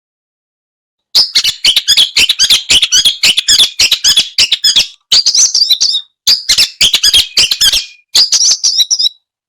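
Long-tailed shrike (cendet) singing a fast, harsh chattering song of rapid sharp notes, starting about a second in and running in bursts with short breaks.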